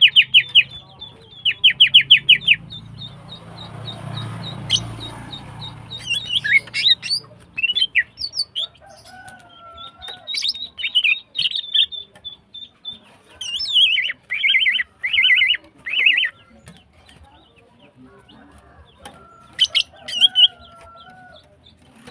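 Female greater green leafbird (cucak ijo) in breeding condition calling: loud, fast rattling runs of repeated notes near the start and again about two-thirds of the way in, with sharp chips and short phrases between. Softer gliding whistles from other birds sit underneath.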